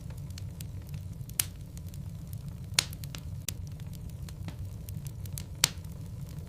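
Wood logs burning in a fireplace: a steady low rumble under constant faint crackling, with three sharper pops spread through.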